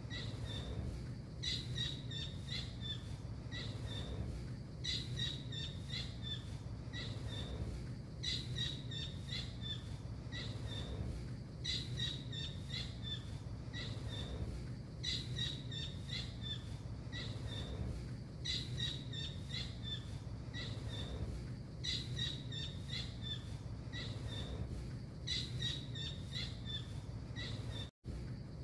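Blue kingfisher (tengkek biru) calling: bursts of short, sharp, high notes repeated roughly every three and a half seconds, over a steady low hum. The sound drops out for a moment near the end.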